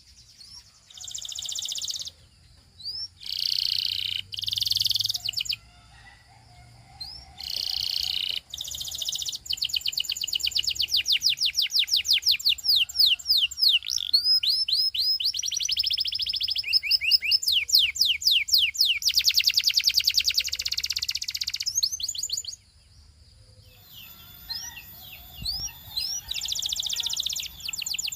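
Belgian singing canary singing. Short bursts of song separated by pauses give way, about ten seconds in, to long runs of rapid repeated trill notes, broken by a brief pause a few seconds before the end.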